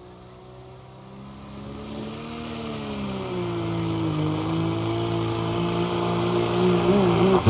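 Hot farm pulling tractor's diesel engine running hard under load down the track. It grows louder from about a second in, and its pitch dips about three seconds in, then holds steady.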